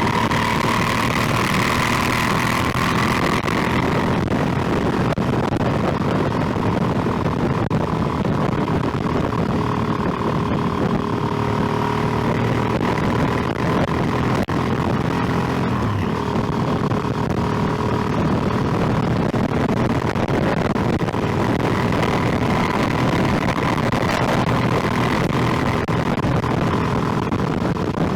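Motorcycle engine running at a steady cruise over a constant rush of wind and road noise. Its pitch drifts gently up and down with small throttle changes.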